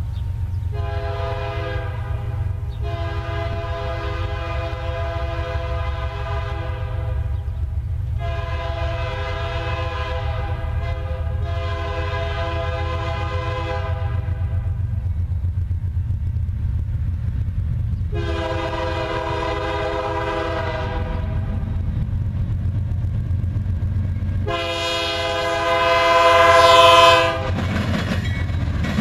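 Diesel freight locomotive's multi-chime air horn sounding six blasts over the steady low rumble of the passing train. The blasts are of uneven length: a short one, a long one, two medium ones close together, then two more spaced apart, the last clearly the loudest.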